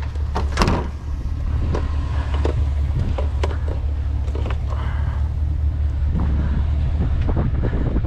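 Steady low rumble of an idling vehicle engine, with scattered knocks and clatter of scrap being handled and tossed, the loudest knock about half a second in.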